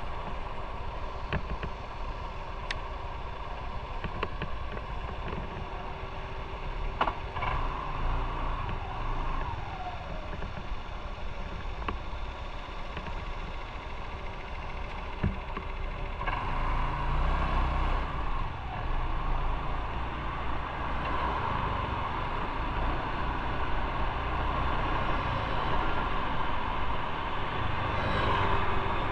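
Motorcycle on the move in traffic: steady engine and road rumble with a few short clicks, growing louder a little past halfway through.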